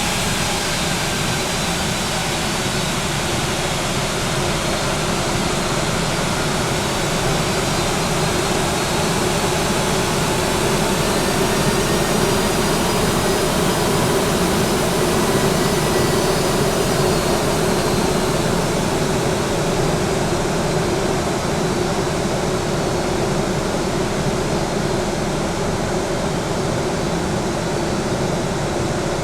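Jet engines of a Boeing 737-800 (CFM56-7B turbofans) running steadily: a continuous rush with a faint high whine, swelling a little midway.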